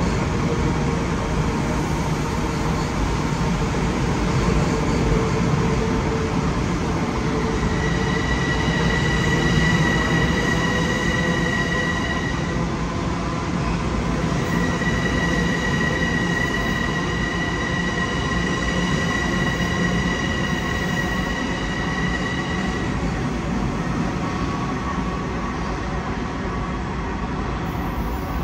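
Long Island Rail Road electric commuter train running along the platform, a steady rumble. A high steady squeal comes in about eight seconds in for a few seconds, then returns for about eight seconds from midway.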